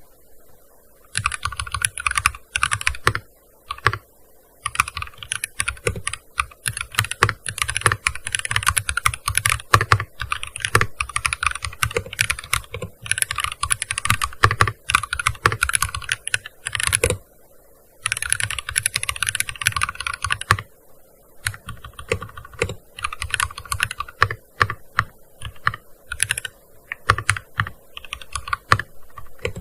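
Fast typing on a gaming keyboard: dense runs of keystrokes broken by short pauses, starting about a second in and growing sparser in the last third.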